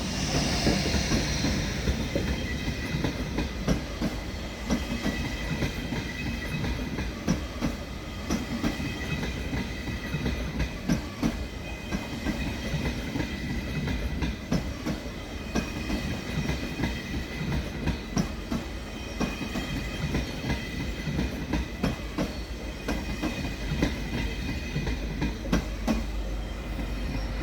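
A train rolling slowly over station track and points, its wheels clacking over rail joints in an irregular run of clicks over a steady low rumble, with a faint high steady whine.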